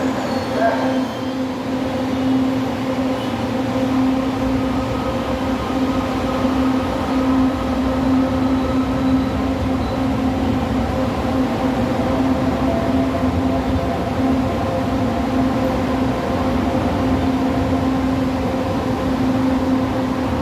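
LRT Line 2 electric train running, a steady rumble with a constant electric hum and faint whining tones over it.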